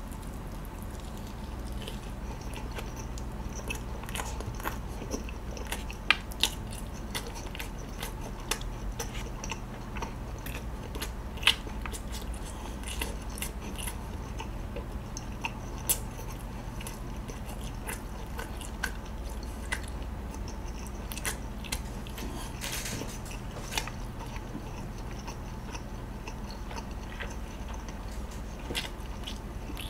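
Close-miked chewing of a sausage: irregular sharp wet mouth clicks and smacks, a few louder than the rest, over a steady low hum.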